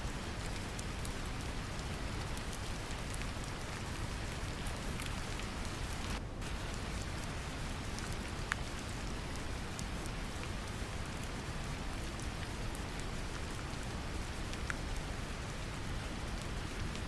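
Steady brown noise, a deep low hiss, layered with gentle rain: an even patter with scattered single drops ticking through it. About six seconds in, the rain's higher hiss drops out for a moment while the low noise carries on.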